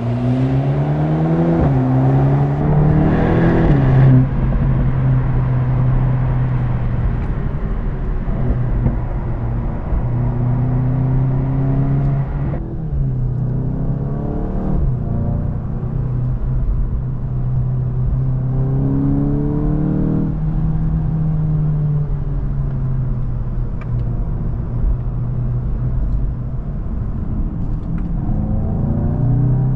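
2025 VW Golf GTI Clubsport's 2.0-litre turbocharged four-cylinder engine under way, climbing steeply in revs in the first few seconds, then cruising at steady revs. Its revs dip and rise again a few times, with another climb near the end.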